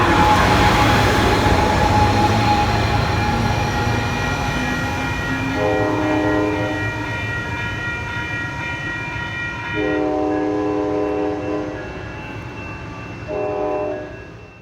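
A train passing with rumble and rail noise that slowly fades, its horn sounding three blasts, the last one short.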